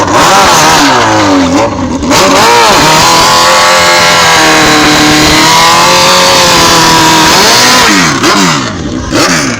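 Sport motorcycle engines revving hard on a drag strip. Their pitch drops and rises twice in the first couple of seconds, holds steady at high revs for about five seconds, then falls away near the end.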